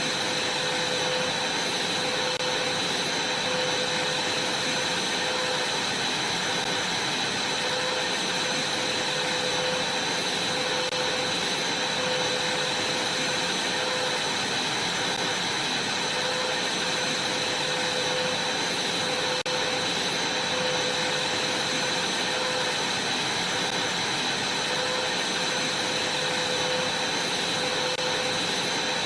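Vacuum cleaner running steadily: a constant hiss with a high whine and a fainter, wavering lower hum.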